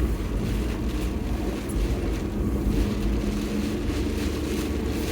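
Kei truck engine running steadily under way, with low tyre and road rumble from driving over a rough road.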